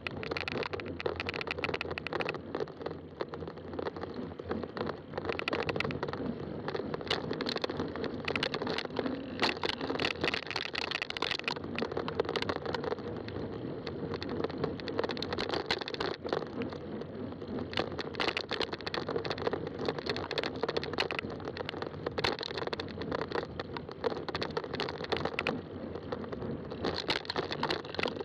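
Fat-tire bike rolling along a trail: a steady rolling noise from the tires, with constant small crackles and clicks.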